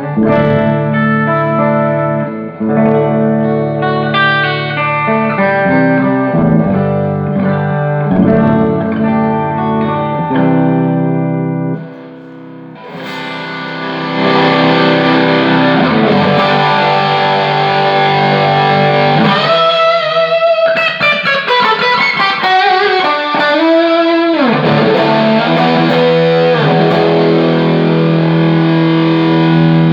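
Electric guitar played through a Fender Hot Rod Deville 212 tube amp, tested after repair of its electronics and new power tube sockets. Single notes and chords at first, a brief drop in level about twelve seconds in, then a brighter, more distorted tone with string bends.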